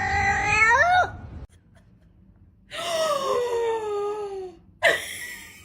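Two long, drawn-out animal cries: the first lasts about a second and rises at its end, and the second lasts about two seconds and slowly falls in pitch. A short sharp sound follows near the end.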